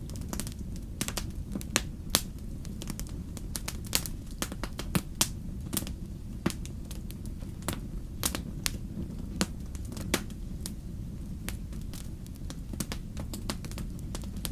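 Wood campfire burning: a steady low rumble of the flames with irregular sharp crackles and pops, several a second, a few much louder than the rest.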